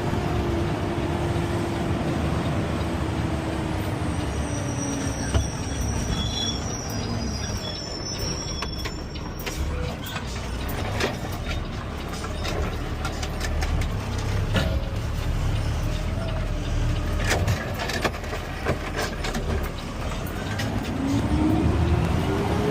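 CNG automated side-loader garbage truck (Peterbilt 520 with Amrep body) running and driving, a steady low rumble whose engine drone falls in pitch early on and rises again near the end. A high brake squeal comes a few seconds in, and scattered clicks and knocks run through the middle.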